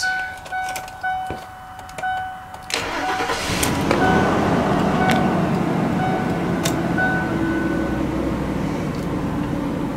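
2002 Mercury Mountaineer's 4.6-litre SOHC V8 starts suddenly about three seconds in. It then runs steadily at a fast idle near 2000 rpm. A dashboard warning chime repeats about once a second before and after the start.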